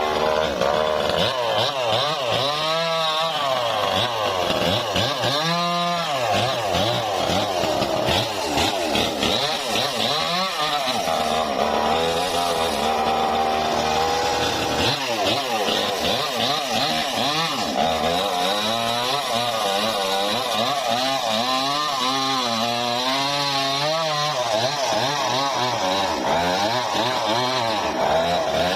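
Engine-driven saw cutting trembesi (rain tree) wood. The engine runs continuously, its pitch sagging and recovering again and again as the blade takes load.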